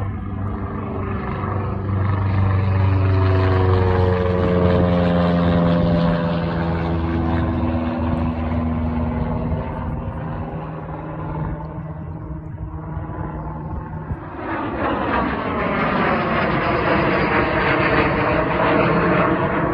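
Propeller airplane flying past, its engine note dropping in pitch as it goes by. A second aircraft comes in louder about two thirds of the way through.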